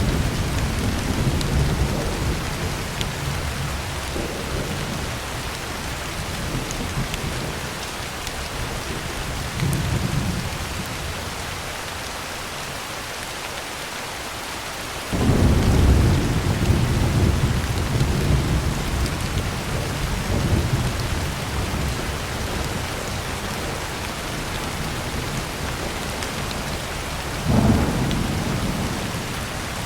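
Heavy rain falling steadily on a tin roof, with thunder rumbling low. A rumble fades out at the start, a weaker one comes about ten seconds in, and a sudden loud rumble about halfway through rolls on for several seconds. A shorter one follows near the end.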